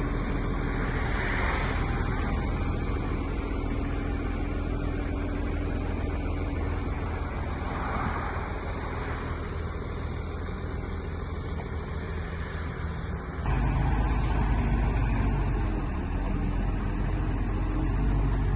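Deutz BF6M1012E six-cylinder diesel engine of an O&K MH 5.5 wheeled excavator running steadily, getting louder and heavier about two-thirds of the way through.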